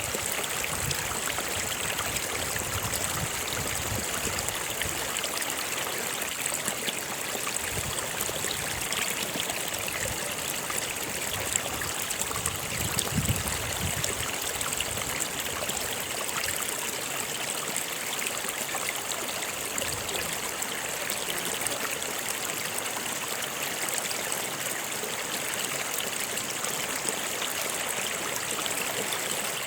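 Stream of water flowing steadily.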